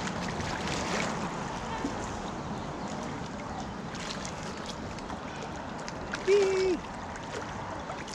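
Steady moving water, trickling and splashing, with a steady hiss. About six seconds in comes one short held tone lasting about half a second.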